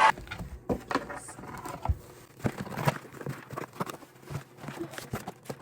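Scattered light clicks, taps and rustles of a clear plastic bird feeder and its packaging being handled as it comes out of the box.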